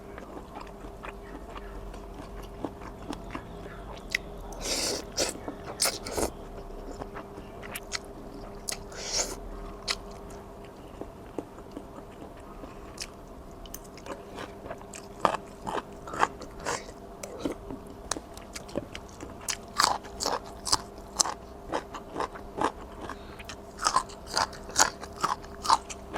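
A person eating seafood rice-noodle soup close to the microphone: wet mouth smacks and chewing clicks, coming thicker in the second half, with a few longer noisy sounds about five and nine seconds in. A steady low hum runs beneath.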